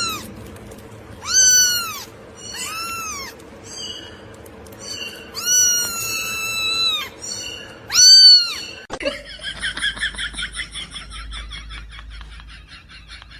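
Domestic cat meowing about five times, each call rising and falling in pitch, one of them long and drawn out. About nine seconds in the sound changes abruptly to a rapid, high-pitched fluttering chirping.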